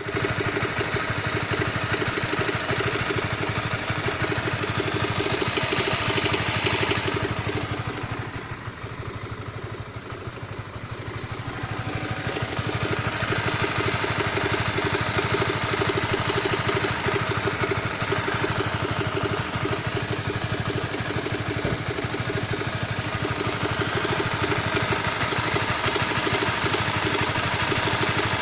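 Honda CB150R's single-cylinder engine running steadily with a fast, even rattle in its note: the weird engine noise the owner is recording. It goes quieter and duller for a few seconds about a third of the way in, then comes back up.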